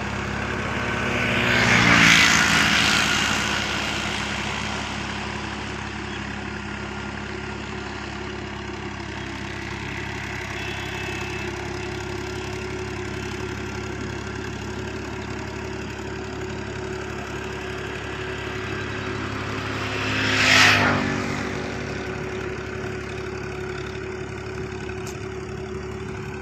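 Universal 533 tractor's diesel engine running steadily while puddling a flooded paddy field, growing louder twice as it passes close: about two seconds in and again about twenty seconds in.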